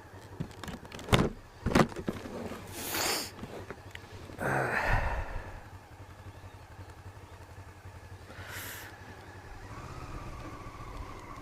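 Motorcycle engine running at low revs while the bike is ridden slowly. Two sharp knocks come a little after a second in, with short bursts of rushing noise after them, and the engine note grows louder near the end.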